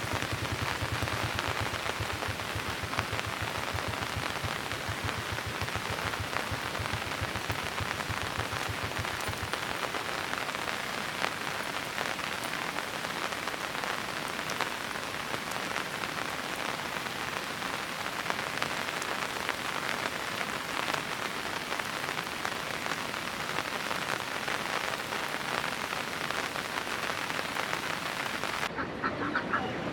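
Steady rain pattering on a surface, a dense hiss of countless small drops. Near the end the rain sound cuts off and ducks start quacking.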